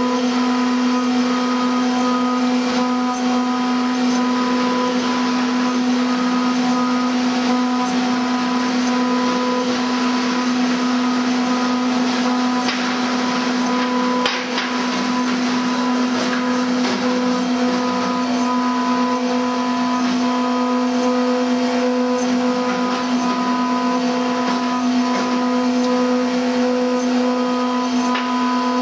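CNC engraving and milling machine running: a steady whine of several constant tones over an even hiss, with one brief dip about halfway through.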